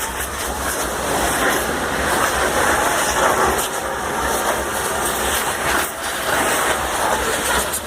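Espada fireworks, handheld bamboo tubes packed with gunpowder, burning with a steady loud hissing rush and a few scattered crackles.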